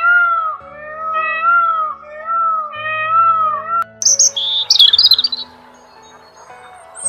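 A peacock giving a series of loud, rising-and-falling calls, one after another; then, about four seconds in, house sparrows chirping in short high notes.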